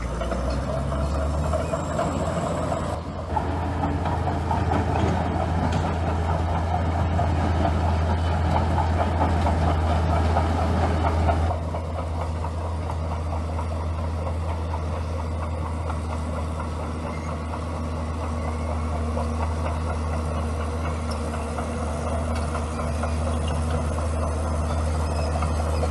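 Bulldozer's diesel engine running steadily, with a louder, rougher working noise for the first eleven seconds or so that then drops back to a lower, even run.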